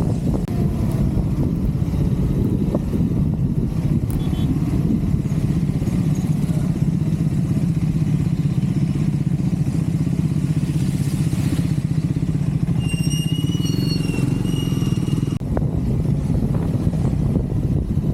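Triumph Scrambler 400 X's single-cylinder engine running steadily on the move. About two-thirds of the way through, a high, broken whistling tone sounds over it for about two seconds.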